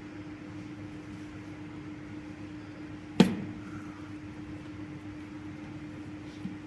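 A single sharp knock about three seconds in, with a brief ring after it, over a steady low hum; a much fainter knock near the end.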